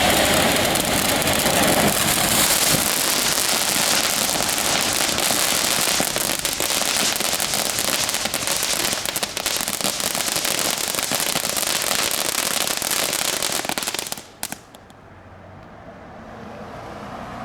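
TNT Neon Dance firework fountain spraying with a loud steady hiss full of crackling, burning out abruptly about fourteen seconds in with a last pop or two.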